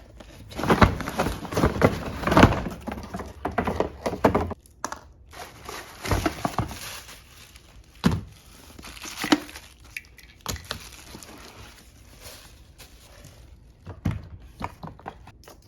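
Cardboard box and plastic packaging being handled and rustled, with a series of thunks as robot vacuum cleaner parts are taken out and set down. It is busiest in the first half, with a few separate knocks later on.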